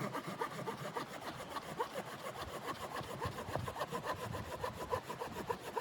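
A saw cutting through wood in a steady, rapid rasping rhythm.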